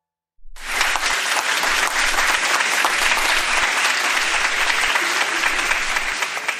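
Audience applause, starting about half a second in, holding steady, then fading out near the end.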